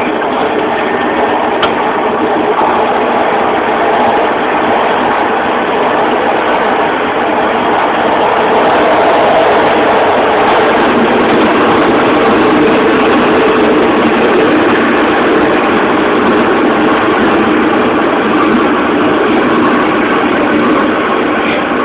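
Santiago Metro Line 4 train running between stations: a steady running noise that swells slightly in the middle.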